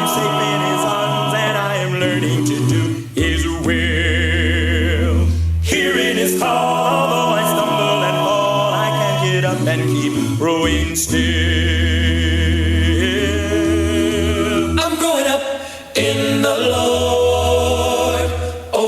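Recorded vocal music: a group of voices singing held chords in harmony over a low bass part, the chords changing every few seconds with brief breaks about three and sixteen seconds in.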